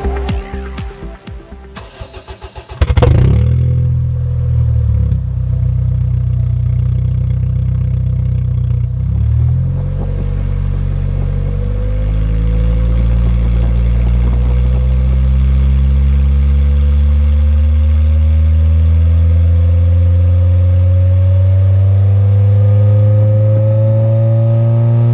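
Electronic music for about three seconds, then the Honda Fit's four-cylinder engine, breathing through an HKS Hi-Power aftermarket muffler, starts abruptly and runs. Its note blips briefly twice, then its pitch climbs slowly and steadily as the engine speed rises toward the end.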